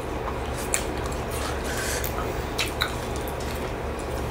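Chewing a mouthful of raw leafy greens: wet, squishy mouth sounds with a few short sharp clicks.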